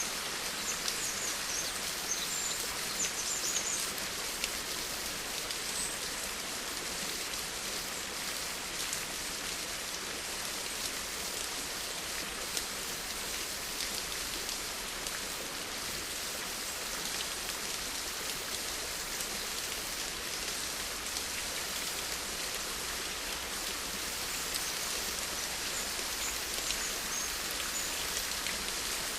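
Steady rain falling, a dense even patter of fine drops striking a surface. A few faint high chirps sound in the first few seconds.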